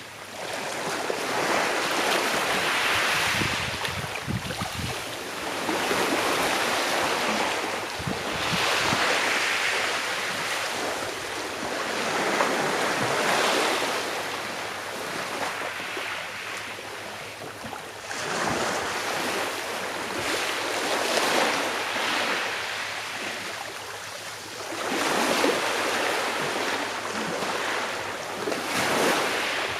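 Small sea waves washing onto a shore and drawing back, swelling and ebbing every four to six seconds.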